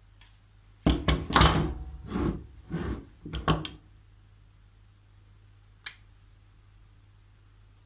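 Knocks and scrapes of a tool being handled on a workbench: a quick run of them in the first few seconds, then a single click.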